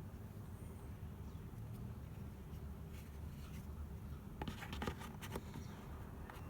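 A quick cluster of light clicks and short scratches about four and a half to five and a half seconds in, over a steady low hum.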